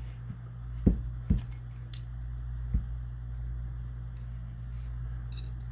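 Small steel shotgun parts (firing pins and flat springs) being worked back out of the action: about four light metallic clicks and taps in the first three seconds, over a steady low hum.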